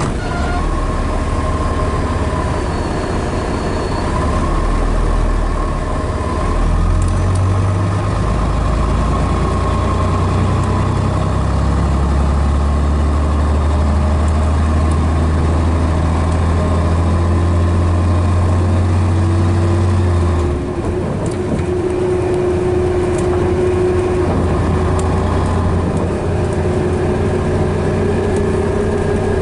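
Scania Metropolitan double-decker bus's DS11 diesel engine running. Its low tone steps up twice in the first half and dips briefly about two-thirds through, and a faint whine rises slowly over the last third.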